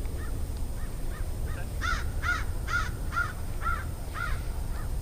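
A flock of birds calling: a steady run of faint repeated calls, with a louder series of six calls about two a second in the middle, over a steady low rumble.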